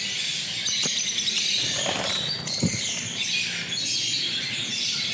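Lovebirds chattering: a continuous mix of shrill squeaks and chirps from several birds at once, with a couple of brief clicks.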